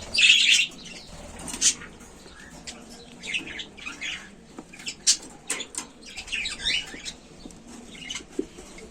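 Small parrots (budgies and lovebirds) in an aviary: scattered short, high chirps and wing flaps, with a loud burst of chirping right at the start and sharp clicks and rustles throughout.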